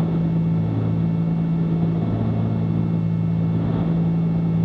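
Cabin drone of a Cessna 310Q's twin piston engines and propellers on approach power, a steady low hum of two even tones with a noise wash over it.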